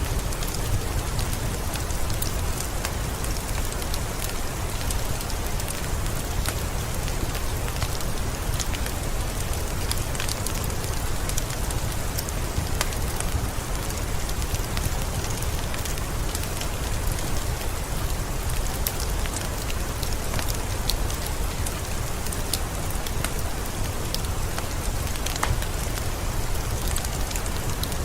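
Heavy downpour of rain falling steadily: a dense hiss dotted with many individual drop ticks, over a steady low rumble.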